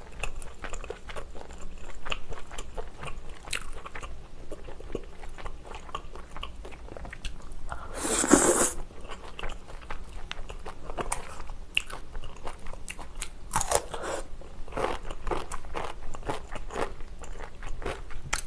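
Close-miked chewing of stir-fried pork intestines (gopchang) with glass noodles: soft wet smacks and clicks of the mouth throughout, with one louder noisy burst about eight seconds in.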